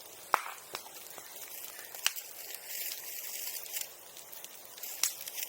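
Bonfire crackling, with a steady hiss and a handful of sharp pops from the burning wood and brush.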